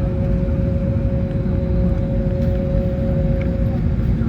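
Cabin noise of an Airbus A321neo with its Pratt & Whitney PW1100G geared turbofans running: a steady low rumble with a steady hum over it, one strand of the hum dropping out near the end.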